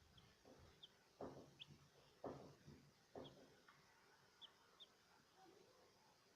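Pet parrot giving faint, short high chirps, about half a dozen scattered through. In the first half there are three louder, duller sounds about a second apart.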